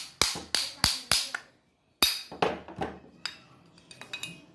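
A hammer striking the metal parts of a starter motor being dismantled: about four quick ringing blows at roughly three a second, a short pause, then a few lighter, uneven taps.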